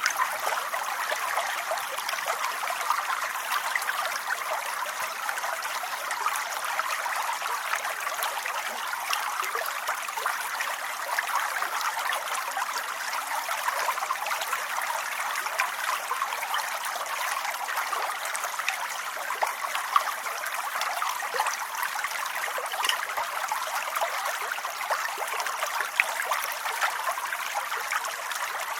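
Steady rain: an even rush of falling water, with many small drop ticks scattered through it.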